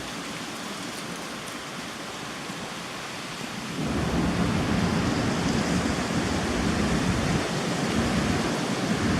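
Hurricane rain and wind making a steady hiss. About four seconds in it grows louder, with a heavy low rumble of wind buffeting the microphone.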